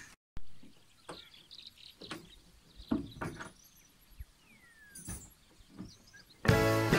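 Quiet outdoor ambience with scattered bird chirps, one a falling whistle, and a few soft clicks or knocks. Background music starts near the end.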